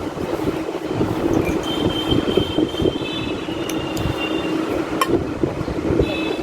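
Steady rumbling background noise with a low hum, faint high chirping over it, and a single sharp click about five seconds in.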